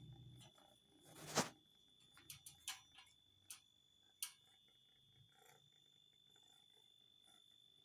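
A cat's low growl dies away just after the start, followed by one sharp, loud burst about a second and a half in and a few faint clicks.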